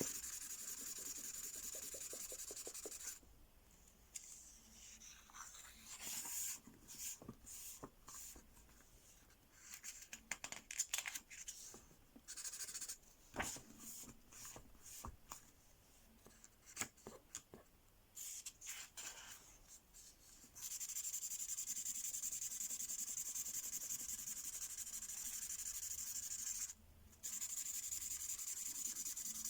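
Mystery ink marker pen scribbling on a colouring page: a steady scratchy hiss of quick back-and-forth colouring strokes at first, then scattered short strokes and light taps of the pen, then steady scribbling again with a brief pause near the end.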